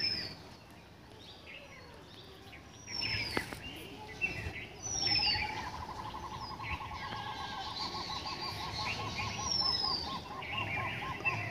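Several wild birds calling: a high, falling whistle repeated every few seconds over assorted chirps, and from about halfway a long, even, rapid trill.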